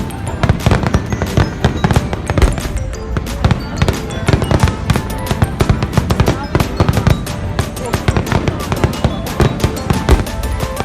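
Fireworks going off in a rapid, dense barrage of bangs and crackles, mixed with music.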